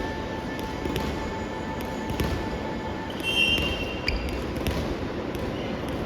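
Soft volleyball play: several sharp hits of the ball over steady hall noise, with a brief high squeak about three and a half seconds in.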